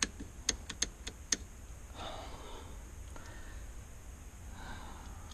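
About six sharp clicks and taps in quick succession in the first second and a half, from parts being handled while the car's dash is taken apart, then two soft breaths.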